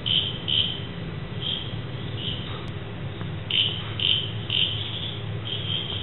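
A bird calling with short, high, piping notes repeated at uneven intervals, about ten of them, over a low steady rumble.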